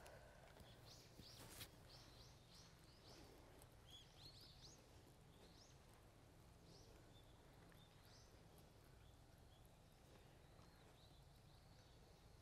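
Faint outdoor birdsong: short rising chirps in quick runs, over a low steady hum. A single sharp click sounds about one and a half seconds in.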